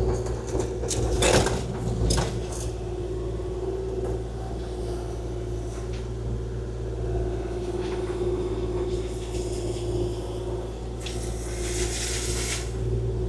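Kubota KX040-4 mini excavator running steadily, a constant hum with a held tone over it. A few sharp knocks come about one to two and a half seconds in, and a rushing hiss near the end.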